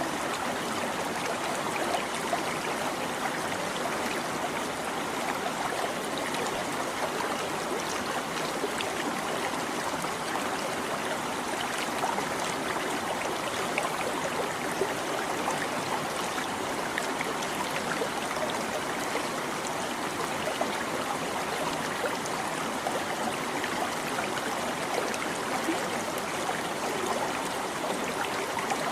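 A babbling stream: steady running and trickling water that goes on without a break.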